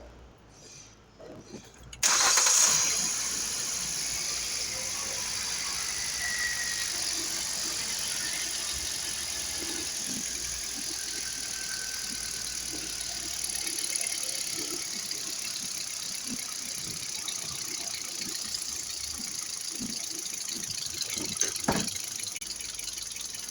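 Hyundai i20 petrol engine starting about two seconds in, then idling steadily, with a couple of sharp clicks near the end.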